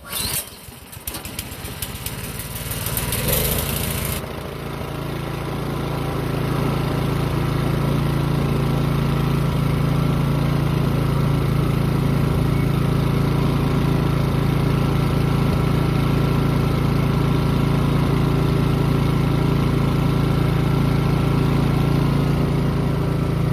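Briggs & Stratton 163cc snowblower engine cranking for about four seconds, then catching and settling into a steady run. It grows a little louder over the next few seconds and then holds even. It is running again after its carburetor was cleaned to cure a no-start.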